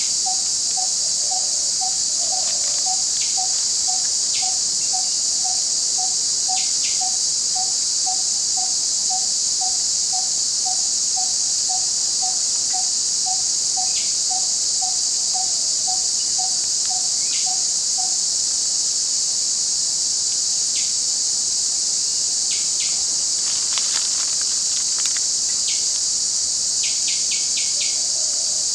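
Dense, steady, high-pitched insect chorus of crickets or similar. Over it, a single low note repeats about twice a second and stops about two-thirds of the way through. Short bird chirps are scattered throughout, with a brief flurry near the end.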